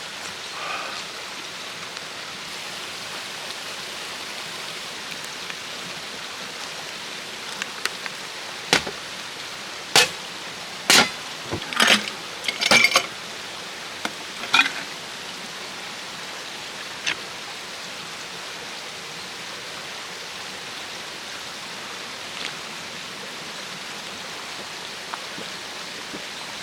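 Steady rush of flowing water, with a cluster of sharp clicks and knocks about nine to fifteen seconds in.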